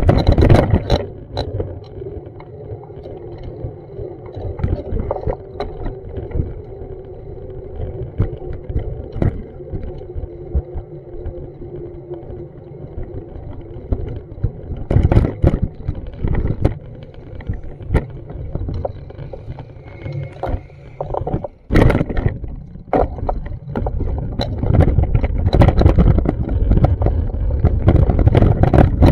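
Street ambience with a steady low rumble of traffic and wind buffeting the camera's microphone, scattered with knocks. The rumble grows louder near the end.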